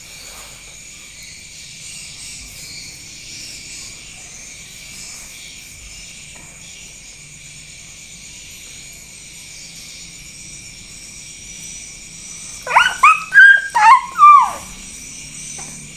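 Four short, high yips in quick succession about thirteen seconds in, from a small dog, over a steady faint high-pitched hum.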